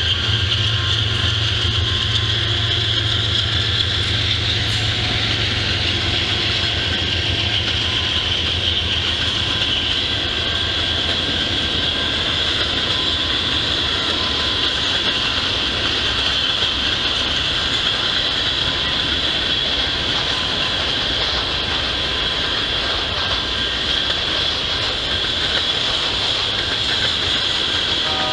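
Freight train cars rolling past in a steady stream of wheel-on-rail noise, with a low rumble that fades over the first ten seconds or so.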